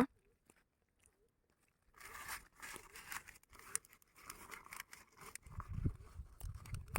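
Teak leaves rustling and crackling in short, irregular bursts as they are handled and pushed into the open ends of bamboo tubes as caps, starting about two seconds in, with a few low thuds near the end.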